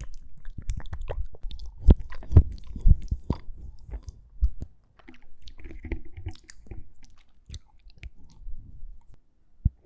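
ASMR mouth sounds close to the microphone: irregular wet clicks, smacks and tongue and lip noises, a few louder pops in the first half, sparser and softer later.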